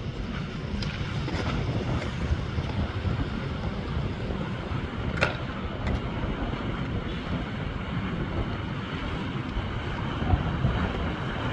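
Wind buffeting the microphone outdoors, a steady low rumbling noise, with one sharp click about five seconds in.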